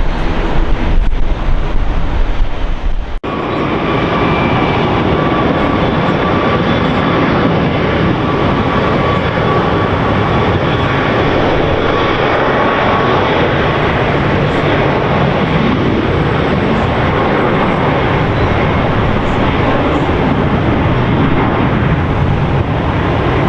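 Wind buffeting the microphone for about three seconds, then after a sudden cut a jet airliner's engines run loud and steady, a broad rush with a faint high whine.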